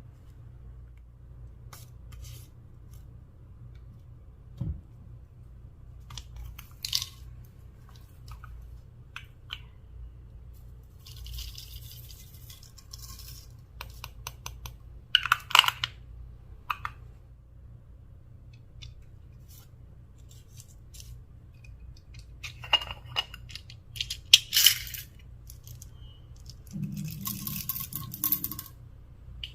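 Slime being mixed and worked by hand: scattered sticky clicks, squishes and crackles, with a few louder crackly bursts about halfway through and again later on.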